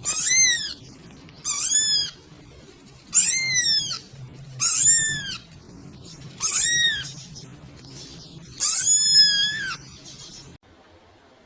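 A cat meowing six times, high-pitched calls that rise and fall in pitch, spaced about one and a half to two seconds apart, the last one longer.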